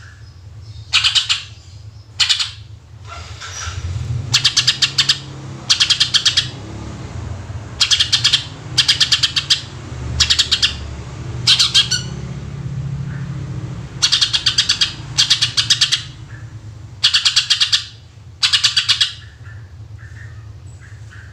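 Cucak ijo (green leafbird) singing in full voice, giving rapid rattling 'tembakan' volleys: bursts of about half a second to a second, repeated every one to two seconds. A low steady hum runs underneath.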